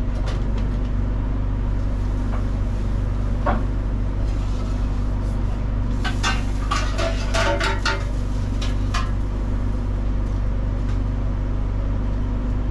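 Dishes and utensils clattering, with a cluster of sharp knocks in the middle, as broth is served, over a steady low machine hum.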